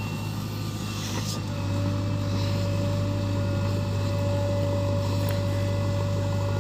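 JCB 3DX backhoe loader's diesel engine running steadily with a low, even drone. Its note eases slightly at first and picks back up after about a second and a half.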